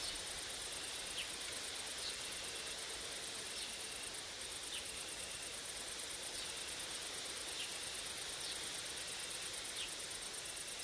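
Grasshoppers and crickets stridulating: a fast, high, pulsing trill that runs on steadily, with a short break about four seconds in. Short high chirps repeat about once a second beneath it.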